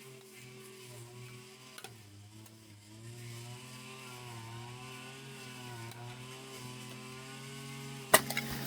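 Small two-stroke brush cutter engine running, its pitch wavering up and down as the throttle shifts, growing gradually louder. A sharp knock near the end.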